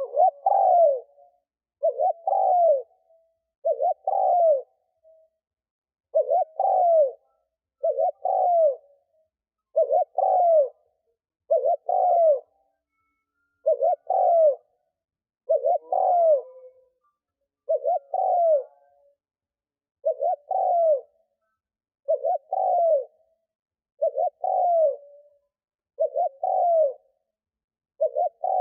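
Spotted dove cooing: a short, low coo phrase with a falling tail, repeated evenly about every two seconds. These are the bowing coos of a decoy male, used to provoke wild doves.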